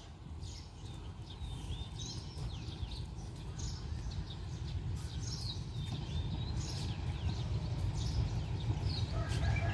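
Birds chirping again and again in short high calls, over a low rumble that grows steadily louder.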